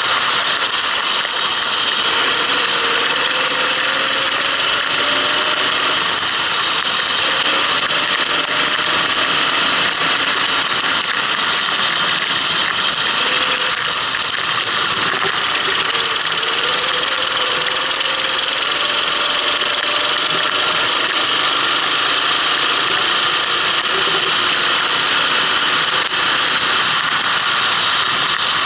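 Go-kart engine running on a wet track, its pitch rising and falling repeatedly as the kart accelerates and slows, under a loud steady hiss.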